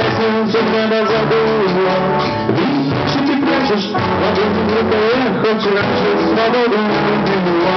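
Rock song playing loudly with drum kit, guitar and bass, and a melody line that bends in pitch. This is an instrumental passage between sung verses.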